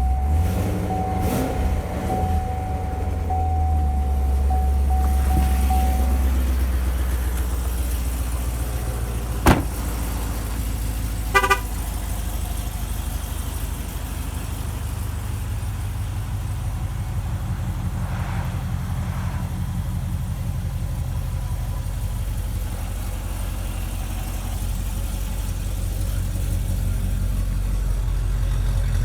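2014 Corvette Stingray Z51's 6.2-litre LT1 V8 idling just after start-up: at a raised idle for the first few seconds, then settling to a steady lower idle. There is a sharp click about nine and a half seconds in and a short beeping chirp a couple of seconds later.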